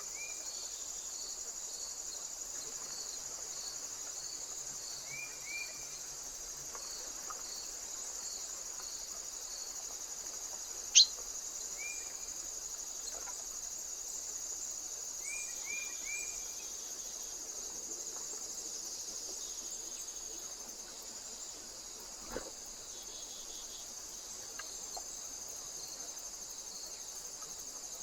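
Insects chirping in a steady high drone, with a regular pulsing chirp about twice a second. A few short high bird chirps come in twos and threes. A single sharp click about eleven seconds in is the loudest sound, and a soft thump follows near the end.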